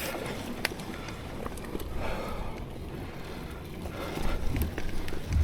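Mountain bike rolling along a dirt trail: uneven low rumble from the tyres, with scattered clicks and rattles from the bike and one sharp knock near the end.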